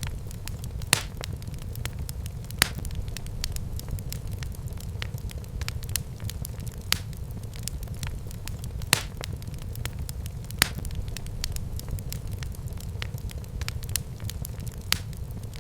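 Wood fire burning in a fireplace: a steady low rumble of the flames with frequent small crackles and a sharp louder pop every second or two.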